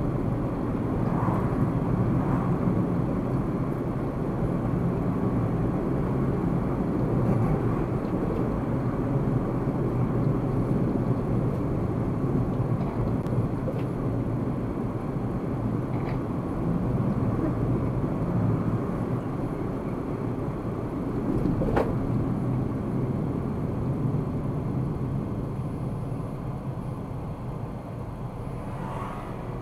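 Car on the move: a steady rumble of road and engine noise, with a single sharp click about 22 seconds in.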